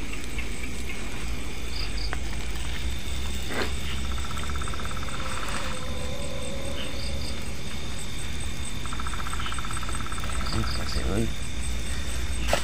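Night chorus of crickets and other insects calling: a steady high trill, with two bursts of rapid pulsing a few seconds long, over a continuous low rumble.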